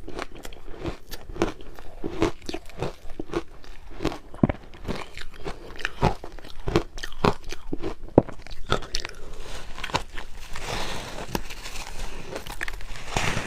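Crushed ice being bitten and chewed close to the microphone: a rapid, irregular run of crisp crunches, with a softer hissing stretch about eleven seconds in.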